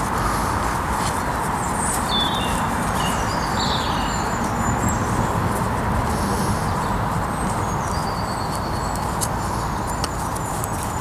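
Small birds chirping in short falling phrases a few times over a steady rushing background noise, with scattered faint clicks.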